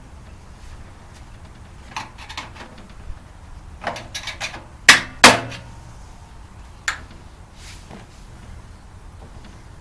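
Irregular knocks and clatters from handling and taking apart a microwave oven's parts, with two loud sharp impacts close together about halfway through and a single knock a couple of seconds later.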